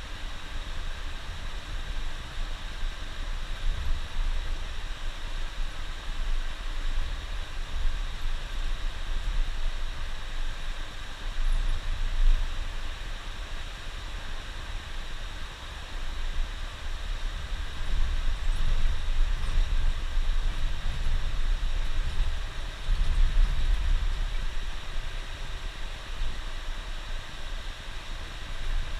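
Driving noise inside a coach's cab: a low engine and road rumble that swells and eases, over a steady hiss.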